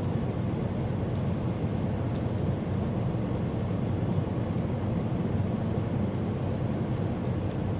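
Steady road and engine noise inside a semi-truck's cab cruising at highway speed: an even low drone with no distinct events.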